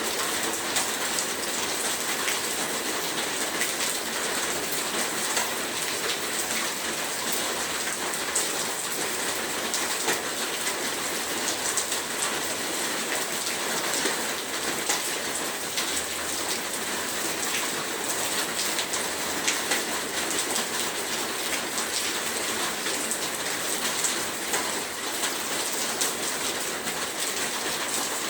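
Heavy rain falling steadily, a dense hiss of drops with many small individual splashes and ticks on a hard surface.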